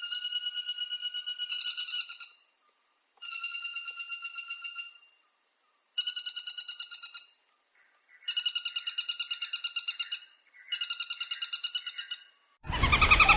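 Woodpecker calling in fast rattling trills: five runs of rapid, evenly spaced notes, each lasting under two seconds, with short pauses between them. Near the end, a louder, different woodpecker call cuts in abruptly.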